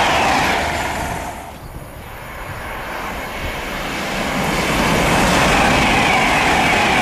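Class 390 Pendolino electric trains passing at speed. The rush of one train's tail fades away in the first two seconds, then another train approaches and is loud as it races past near the end.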